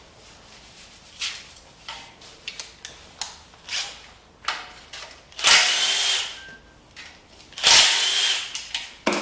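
A handheld power tool runs in two bursts of about a second each, one about halfway through and one near the end, backing out the LS engine's oil pan bolts. Short knocks and clinks of tools and parts come before the bursts.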